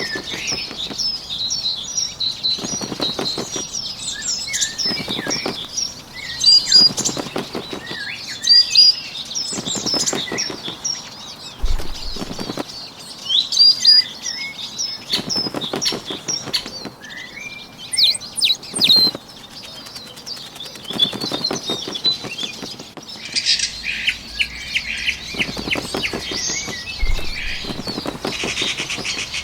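Sound effect of a small bird's wings flapping in repeated short bouts, over continuous high-pitched bird chirping and twittering.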